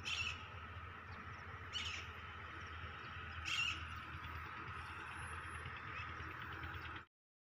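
A bird calls three times, about once every two seconds, over a steady low hum and hiss.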